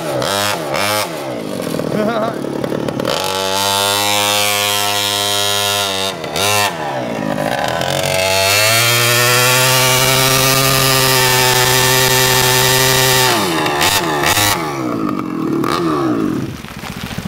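Small mini bike engine revving: a few quick blips up and down, two stretches held at steady revs (the longer one, in the middle, at a higher pitch), more blips, then it drops back to a low idle near the end.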